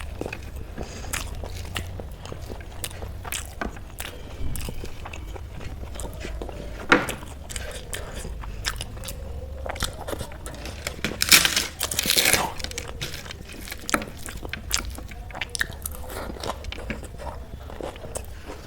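Close-miked chewing and crunching of food, many small crisp bites and mouth sounds, with a louder run of crunching about eleven seconds in.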